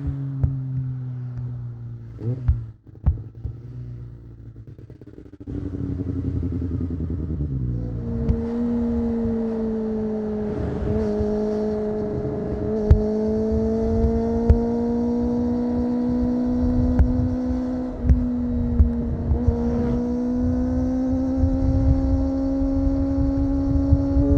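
Kawasaki ZX-25R's four-cylinder engine through an Akrapovic exhaust, heard from on the bike: quieter and off the throttle at first, then pulling hard from about five seconds in, its pitch climbing and held high with a short dip about two-thirds through.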